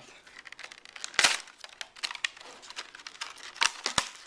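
Retail packaging being opened by hand: crinkling and rustling with scattered sharp clicks, the loudest rustle about a second in.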